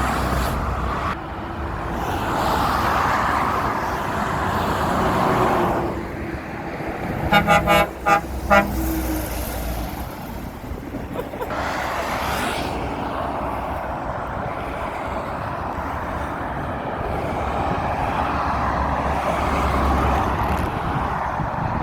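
Road traffic passing, with engine and tyre noise swelling and fading as vehicles go by. A vehicle horn sounds about four quick toots around seven to eight seconds in, the loudest sound here.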